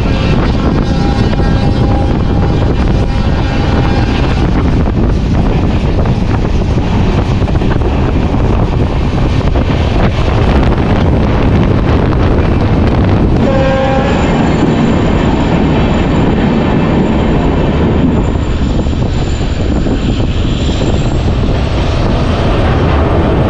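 Passenger train running at speed, heard from an open coach doorway: a steady loud rumble of wheels on the rails mixed with wind on the microphone. A brief tone sounds a little past the middle, and a thin high whine runs on after it.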